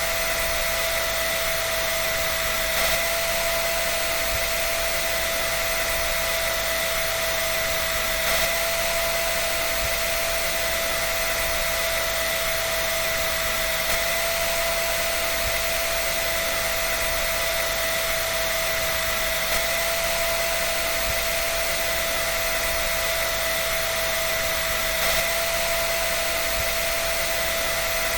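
An electric dryer running steadily: a continuous rush of air with a constant whine, and a slight swell about every five and a half seconds.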